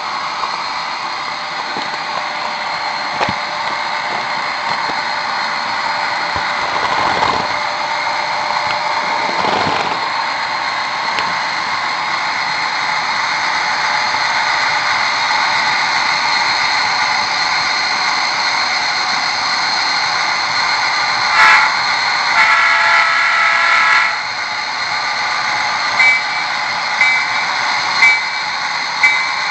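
Sound-equipped HO scale model GP40 and GP38 diesel locomotives running, a steady thin diesel engine sound with little bass. About two-thirds of the way through, a horn sounds for about two seconds, and several short horn toots follow near the end.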